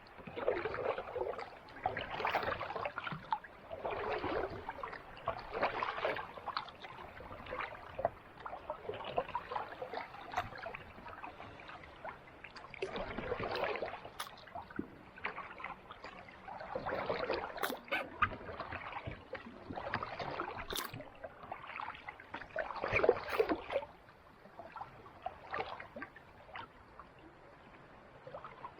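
Kayak paddle strokes in calm sea water: a swish and splash about every two seconds at first, then less regularly, with a few light knocks. The strokes stop a little before the end, leaving only faint water sounds.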